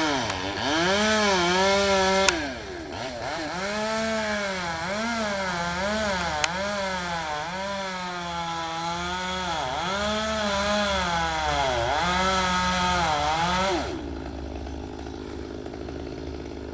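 Chainsaw running at high revs while cutting a tree branch, its pitch repeatedly dipping and recovering as the chain bogs down in the wood. Near the end the throttle is let off and the saw drops to a quieter idle.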